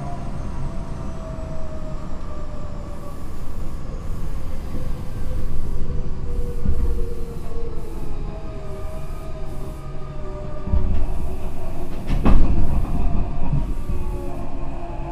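Tokyo Metro 8000 series train running, its Mitsubishi IGBT-VVVF traction motor whine falling slowly in pitch as the train slows, over a steady rumble of wheels on rail. A sharp knock about twelve seconds in is the loudest moment.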